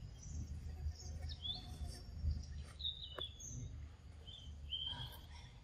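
Birds chirping: several short, high chirps with quick pitch slides, spaced irregularly, over a steady low outdoor rumble.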